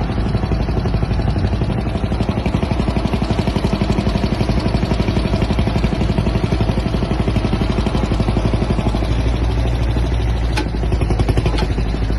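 An old engine running steadily with a fast, even chugging beat, with a couple of sharp clicks near the end.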